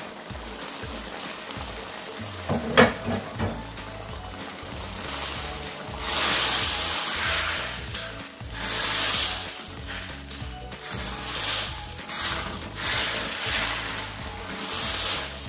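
Sardine and potato gravy sizzling in a steel wok as a wooden spatula stirs and scrapes through it, just after a flour-and-water thickener has gone in. The hiss swells and fades in waves from about a third of the way in. There is a single sharp knock near three seconds in.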